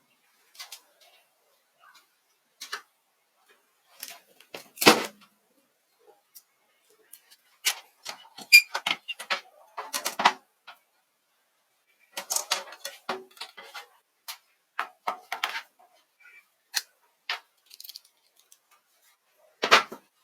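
Irregular clicks, taps and knocks of tools and small parts being handled during workshop repair work, with short silent gaps between them. One sharper knock comes about a quarter of the way in and another near the end.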